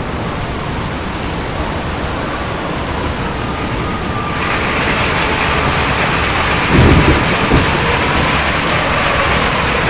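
A hailstorm with heavy rain and strong wind: a dense, steady hiss of falling rain and hail that grows brighter and louder about four seconds in. A louder low rumble comes about seven seconds in.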